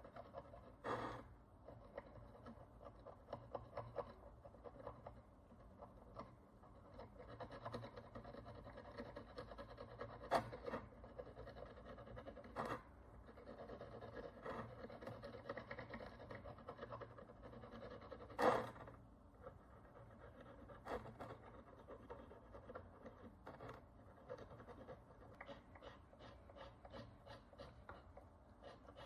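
A small hand tool scratching and picking at the crust on an ancient bronze coin, taking off dirt and oxidation. The strokes are faint, quick and scratchy, with a few sharper clicks, the loudest about two thirds of the way in.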